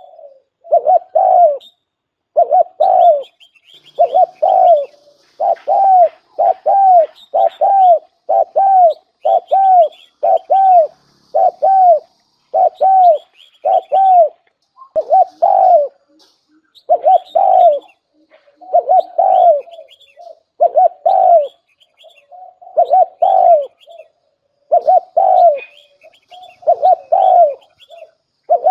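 Spotted dove cooing over and over: short, low coo phrases about once a second, the call kept as a decoy to lure wild doves.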